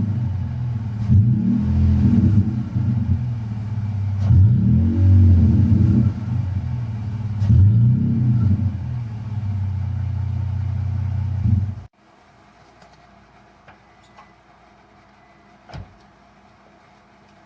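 Pickup truck engine through an aftermarket MBRP dual exhaust with resonator tips, blipped up and down in several short revs and then settling to a steady idle, before cutting off suddenly about two-thirds of the way in. A single short click follows in the quiet.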